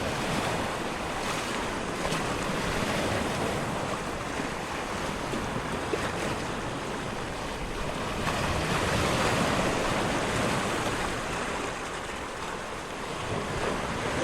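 Ocean surf: a steady rush of breaking waves that swells a little in the middle and then eases.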